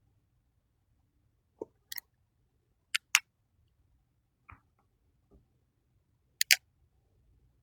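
Coloring markers being handled: three pairs of sharp plastic clicks, each pair a fraction of a second apart, with a couple of soft taps between.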